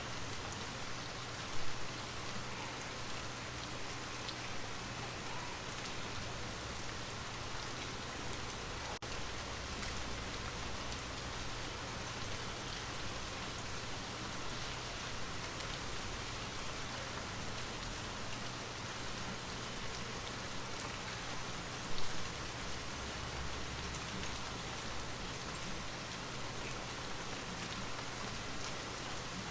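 Steady rain falling on a surface, a continuous even patter. Two brief, louder low thumps stand out: one early on and one about two-thirds of the way through.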